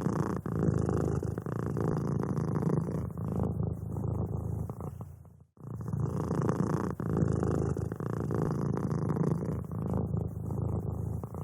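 Domestic cat purring steadily in a low rumble. The purr dies away briefly about five and a half seconds in, then starts again.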